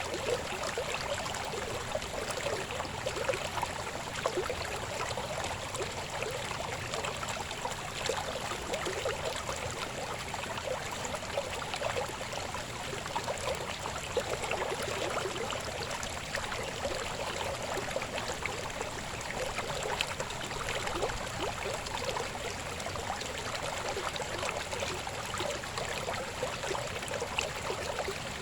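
Babbling river flowing steadily, a continuous bubbling and gurgling water sound.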